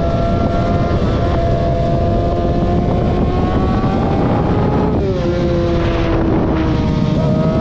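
Vehicle engine running under way with heavy wind noise on the microphone. Its pitch climbs slowly, drops sharply about five seconds in like a gear change, then steps back up near the end.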